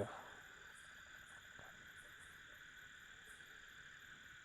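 Faint steady night chorus of insects and frogs: several shrill tones held without a break, with a high chirp pulsing over them at an even rate.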